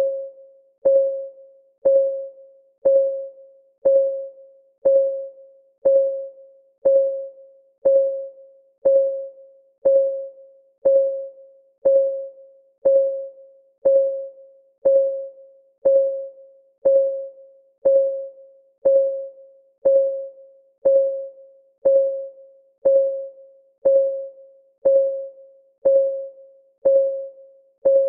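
Countdown timer's ticking sound: one short, pitched tick each second, every tick alike, each ringing out briefly before the next.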